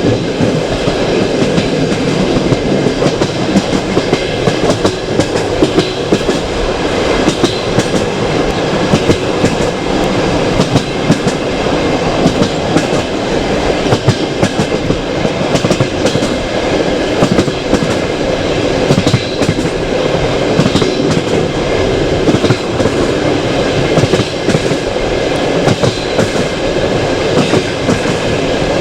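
Passenger train carriage running along the track: a steady rumble of wheels on rails, with frequent sharp clicks and knocks from the wheels passing over rail joints.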